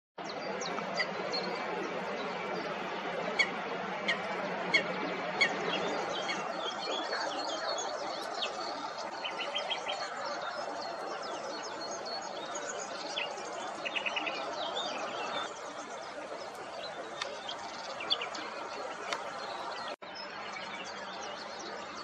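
Small birds chirping and calling over a steady background noise, with several sharp, loud chirps in the first few seconds and two short, rapid rattling calls in the middle.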